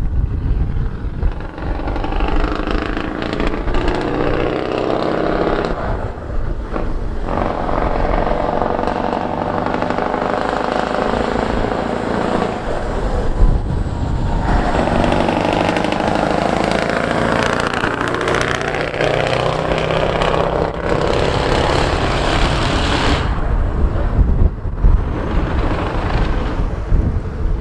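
Scania 141's 14-litre V8 diesel engine running under load, its pitch rising and falling, with the sound easing off briefly several times as the throttle is lifted.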